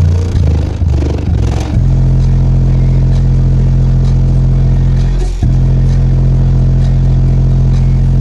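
Bass-heavy music played loud through a custom B2 Audio CC12 subwoofer: choppy low notes for about the first two seconds, then a long held deep bass note that breaks off briefly about five seconds in.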